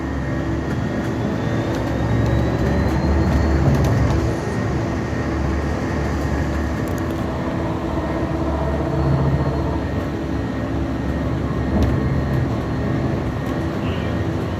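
A 2012 Gillig hybrid bus under way, heard from inside the cabin: a steady drivetrain rumble with several held tones and a faint high whine that rises and falls in pitch. This is the strange noise a rider noticed.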